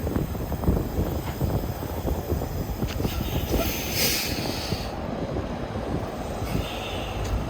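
Commercial truck's engine running with a steady low rumble as it manoeuvres, with a short hiss about four seconds in.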